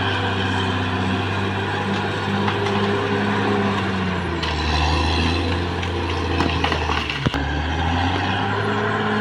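Caterpillar D6R XL bulldozer's diesel engine running steadily; about four seconds in its note drops lower, and it rises again near the end. A few metallic clanks come around six and a half seconds in, with one sharp knock just after seven seconds.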